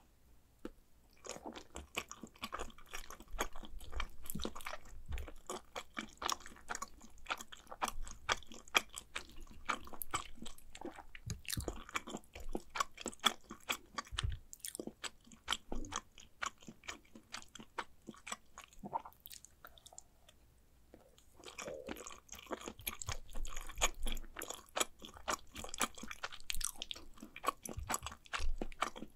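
Mouth sounds of eating mac and cheese: chewing with rapid wet clicks and smacks, pausing briefly about two-thirds of the way through.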